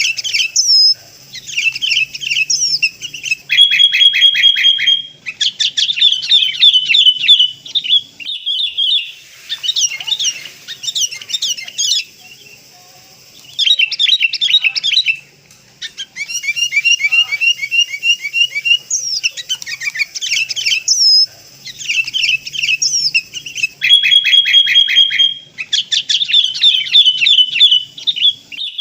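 Sooty-headed bulbul calling in rapid, chattering runs of short notes, with a few brief pauses near the middle; the same kinds of phrases come round again.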